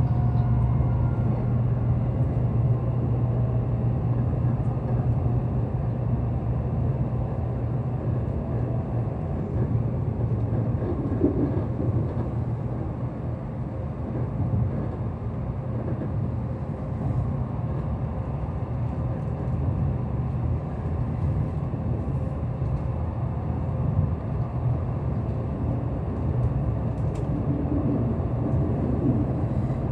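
Steady low rumble and hum from a Tokaido Shinkansen train, with no distinct events.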